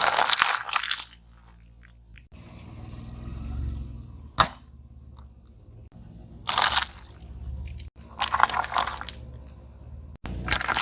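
Objects crunching and breaking as a car's tyre crushes them: several separate bursts of crunching, with one sharp crack about four seconds in, over a low rumble.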